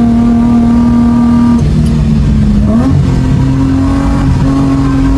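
Car engine heard from inside the cabin under hard driving: a steady high note that drops in pitch about a second and a half in, then climbs again shortly before three seconds, over road and wind noise.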